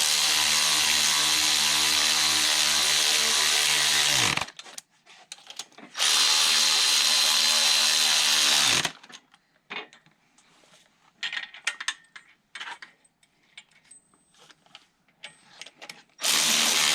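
A power drill running a bolt in, in three runs: about four seconds, about three seconds, and a short one near the end, each winding down in pitch as the trigger is let go. Small clicks and handling noises come in the gaps.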